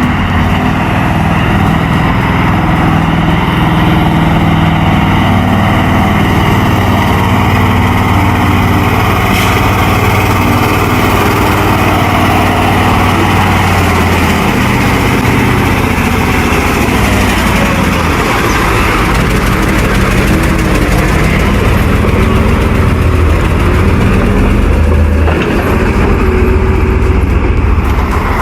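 Heavy truck engine running loud and steady under load. Its pitch rises and falls in the second half.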